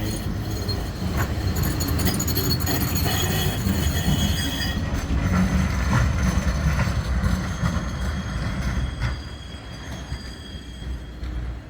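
Tram running past on the rails, a low rumble with high-pitched wheel squeal, fading away near the end.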